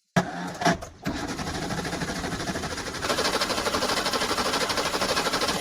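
A machine running with a fast, even rhythmic pulse. It starts abruptly, dips briefly about a second in, gets louder about three seconds in and stops near the end.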